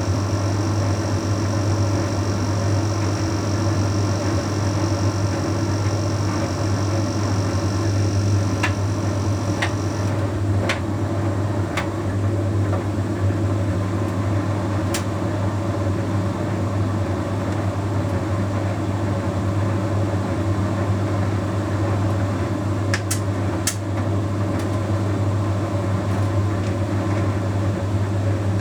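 Bosch Series 6 heat pump tumble dryer running, a steady low hum throughout. A faint high whine stops about ten seconds in, and there are a few sharp light clicks, two close together near the end.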